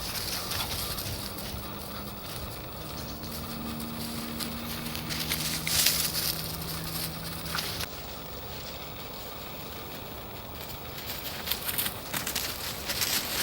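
Footsteps crunching and rustling underfoot while walking, with a faint steady low hum, like a distant engine, in the middle stretch; the crunching eases off after about eight seconds.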